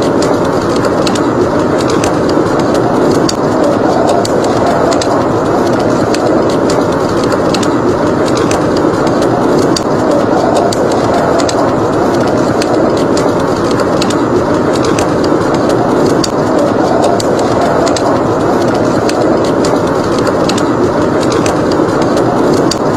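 Steady blizzard wind, a loud rushing noise, with a wood fire crackling over it in scattered sharp pops.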